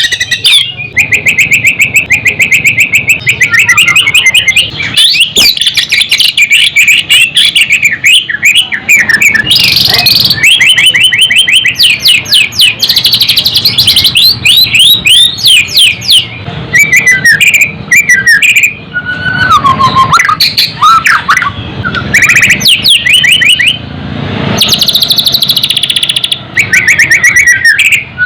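White-rumped shama (murai batu) singing loudly and almost without pause: rapid trills, chattering runs and whistled phrases, changing every second or two.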